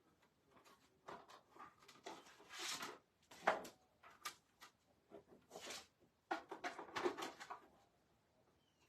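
Hand-cranked die-cutting and embossing machine being turned, its rollers pulling a plate sandwich through in uneven rubs and knocks, with a sharp knock about three and a half seconds in.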